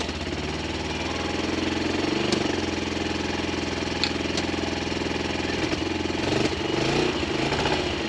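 Motorcycle engine idling with a steady, fast, even putter that picks up slightly around six to seven seconds in.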